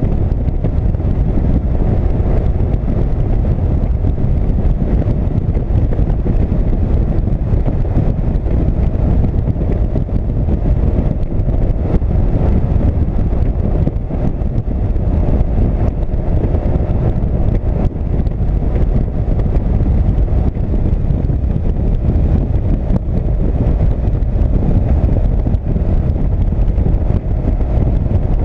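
Motorcycle riding at speed: a steady rush of wind with engine and road noise underneath, unbroken throughout.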